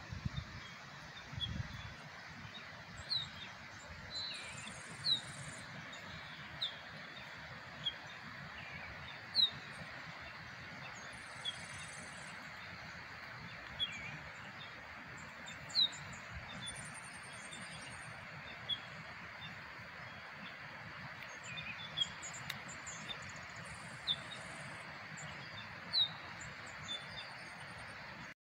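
Birds chirping outdoors: short, sharp downward calls every second or two over a steady background hiss.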